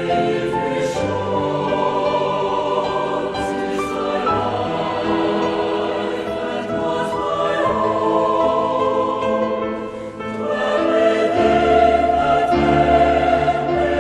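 Choral music: a choir singing sustained chords over instrumental accompaniment, briefly softer about ten seconds in, then swelling louder.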